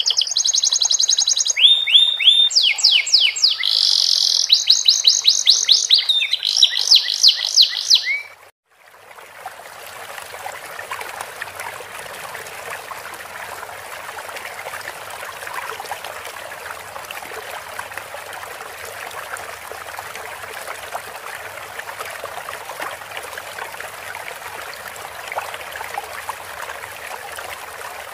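Canary singing fast trills and rapidly repeated sweeping whistles, in a song filled in with learned sikatan londo phrases. About eight seconds in, the song cuts off abruptly and a steady trickling stream of water takes over.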